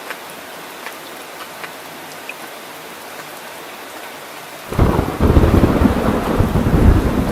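Steady rain hiss with scattered drips; near the end a loud, low rumble of thunder starts suddenly and keeps rolling.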